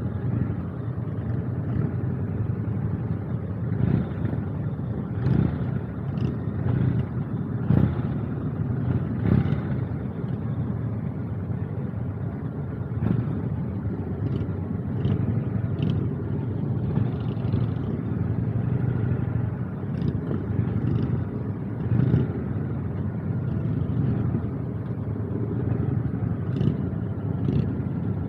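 Steady engine and road noise of a vehicle cruising on an interstate highway, with a few short thumps.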